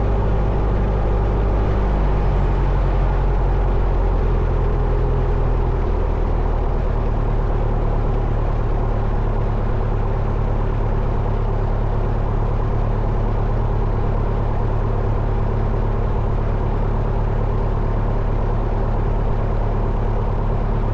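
1972 Cessna 172 Skyhawk's four-cylinder Lycoming engine running at low power, heard inside the cabin. Its note steps down twice in the first several seconds, then holds steady.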